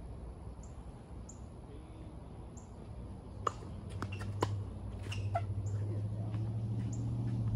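Short high bird chirps, repeating about once a second. A few sharp knocks come in the middle, and a low steady hum builds up over the second half.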